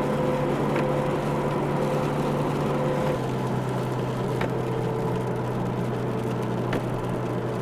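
Steady car engine and road drone heard from inside the cabin, its pitch stepping down slightly about three seconds in, with a few faint ticks.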